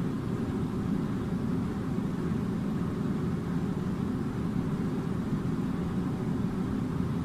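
A steady low rumbling drone of a running machine, level and unchanging throughout.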